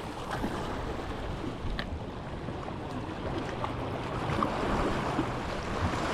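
Waves washing and wind blowing over the microphone: a steady rushing noise with a few faint clicks.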